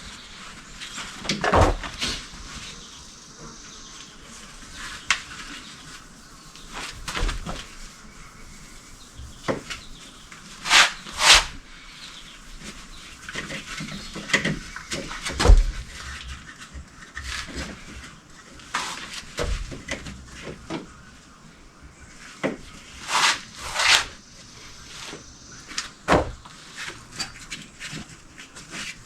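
Intermittent clicks, knocks and short scraping sounds of tools and metal parts being handled and fitted, with a heavier thump about halfway through.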